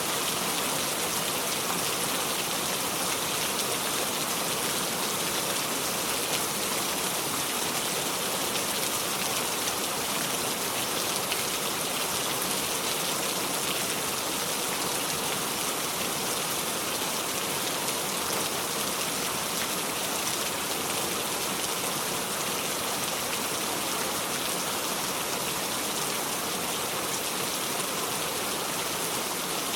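Steady heavy rain falling without thunder, an even unbroken hiss of rain on surfaces.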